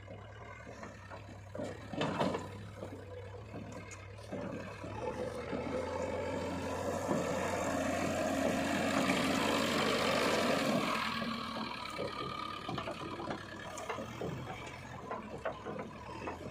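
Heavy diesel machinery running at a steady low hum, with sharp knocks about two and four seconds in and a louder rushing swell in the middle that fades again after about eleven seconds.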